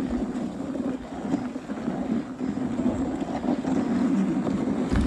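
Dog sled moving along a snow trail: the runners make a steady rough scraping, and wind buffets the microphone.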